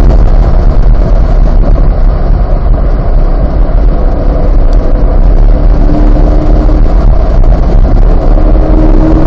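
Onboard sound of a Corvette C8 Z51's 6.2-litre V8 running hard on track, its note shifting slowly in pitch, under heavy low rumble from wind and road on the microphone.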